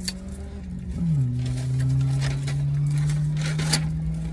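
Car engine idling steadily, its pitch dipping slightly about a second in, with a few light clicks over it.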